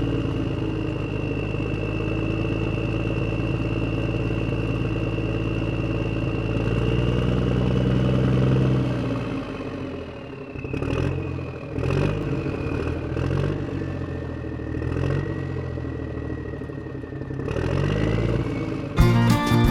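Small toy diesel engine running steadily with a high whine, then dropping to an uneven, pulsing chug about once a second with a few clicks. Music with guitar starts near the end.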